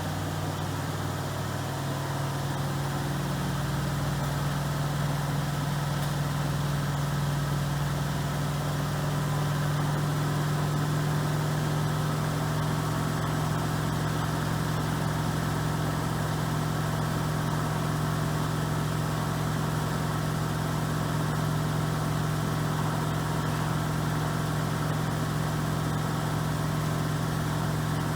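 Miele Professional PW6065 Plus washing machine spinning its drum at high speed: a steady motor hum that rises in pitch over the first few seconds, then holds steady, as it runs its high-speed spin toward 1400 rpm.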